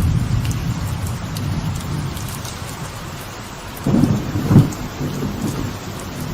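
Light rain falling on a veranda, with scattered drop ticks over rolling thunder. The thunder eases, then rises in two close, louder peals about four seconds in before rumbling on.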